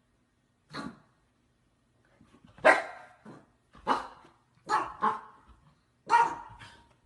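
A dog barking: about eight short barks, one alone near the start and the rest in a quicker run from about two and a half seconds in.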